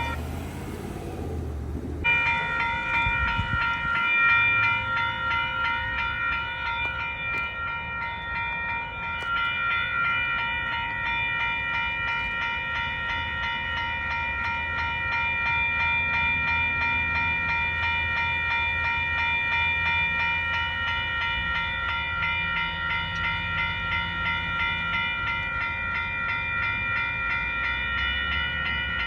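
Railroad crossing warning bell ringing steadily over the low rumble of a passing intermodal freight train.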